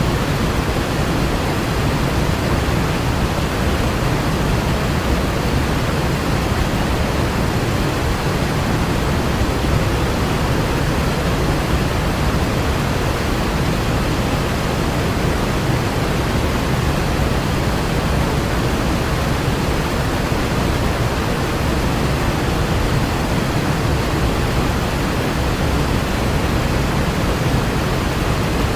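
Steady, loud rushing noise, heaviest in the low end, with no breaks or changes.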